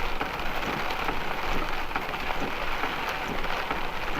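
Heavy rain beating on a motorhome's windshield and body, heard from inside the cab: a steady hiss dotted with many small drop hits.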